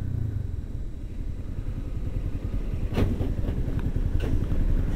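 Yamaha YBR 250 single-cylinder motorcycle on the move: steady low engine and riding rumble, with two sharp clicks a little over a second apart in the second half.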